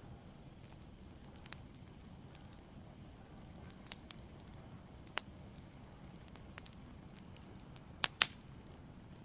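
Wood fire in a fireplace burning with a low steady hiss and sparse sharp crackles and pops, the loudest a double pop about eight seconds in.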